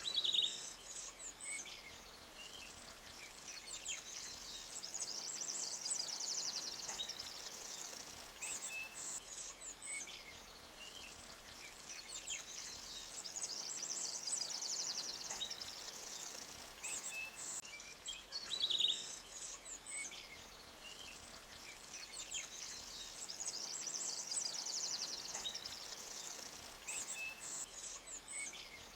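Forest ambience of small birds chirping, with high trilling phrases that swell and fade every several seconds and a couple of sharper, louder calls, over a faint steady hiss.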